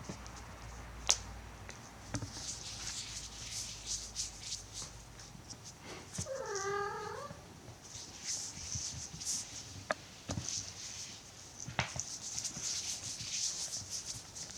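A cat meows once, a single drawn-out call of just over a second about halfway through, amid scattered light taps and clicks.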